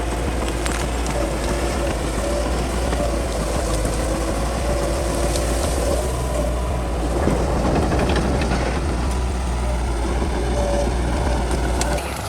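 Bulldozer's diesel engine running steadily under load, with a deep hum and a wavering mid-pitched drone, mixed with the clatter of tracks and a few sharp snaps.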